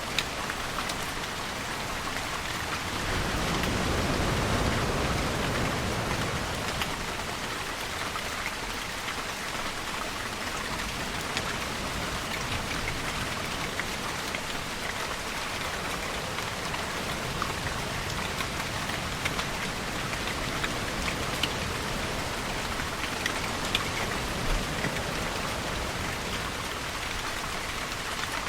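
Steady rainfall with scattered drops pattering close by. A louder, deeper swell of noise rises and fades between about three and six seconds in.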